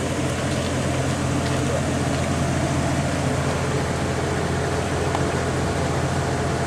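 Kominato Railway KiHa 200 diesel railcar's DMH17 eight-cylinder diesel engine idling steadily while the railcar stands still, with an even low drone.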